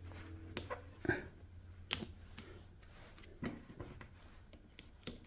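Scattered light clicks and taps of small parts and tools being handled on a workbench, over a faint steady low hum.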